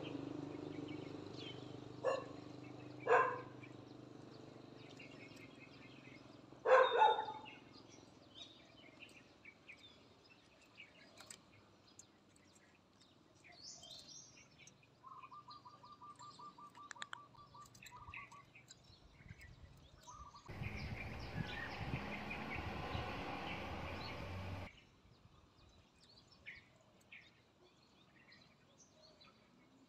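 Faint bird calls: scattered high chirps, and about halfway through a short run of rapid, evenly spaced notes. A few knocks come in the first seven seconds, and a rush of noise lasting about four seconds comes near the end.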